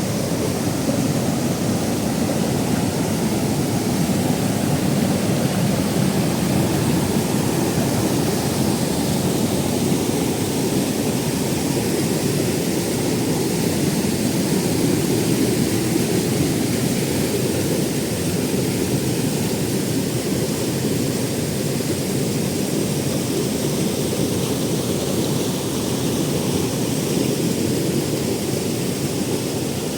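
Waterfall: water falling and splashing in a steady, unbroken deep rush.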